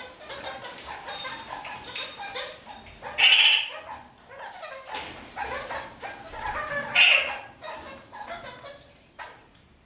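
Red-crowned kakariki (parakeets) chattering, with two loud, harsh calls about three seconds in and again about seven seconds in.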